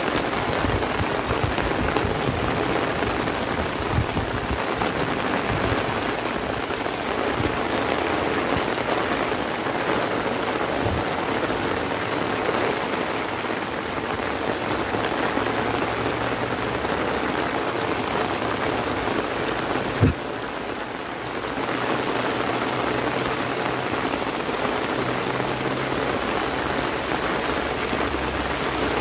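Heavy rain falling steadily on an umbrella, with one sharp knock about twenty seconds in.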